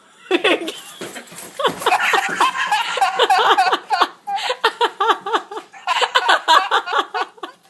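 Several people laughing and giggling almost without a break, in quick high-pitched bursts.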